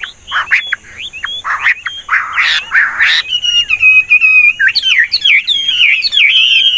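Chinese hwamei singing a varied, continuous song that keeps changing phrase. Rapid, harsher notes come first; from about three seconds in they give way to a run of clear whistled notes sliding up and down.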